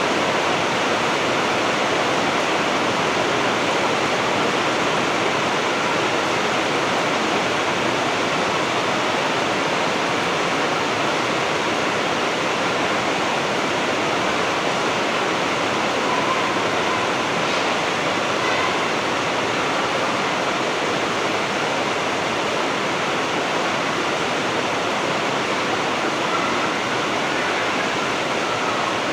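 Heavy rain falling steadily: a dense, even hiss of downpour with no let-up.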